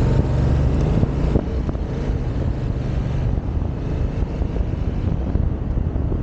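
Yamaha XSR700 parallel-twin engine running under heavy wind noise on the microphone. The engine's steady tone fades about a second and a half in, leaving mostly wind rumble.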